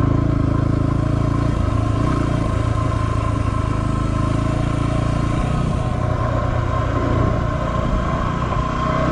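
A 2016 Yamaha WR250R's 250 cc single-cylinder four-stroke engine running steadily at cruising speed on a dirt road, its pitch shifting only slightly.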